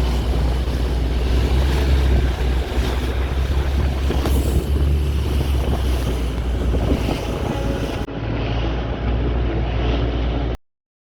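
Longtail boat engine running with a steady low drone, wind buffeting the microphone over it; the sound cuts off abruptly near the end.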